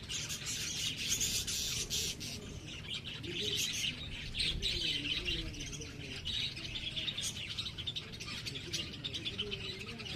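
Small birds chirping rapidly and continuously, many short high chirps overlapping throughout.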